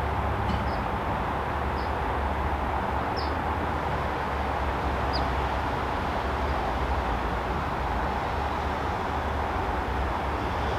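Steady backyard background noise: a constant low rumble and hiss, with a few short high chirps in the first half.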